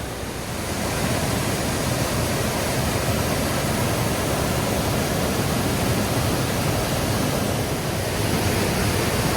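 Waterfall rushing, a steady, loud white-noise roar that swells a little about a second in and then holds.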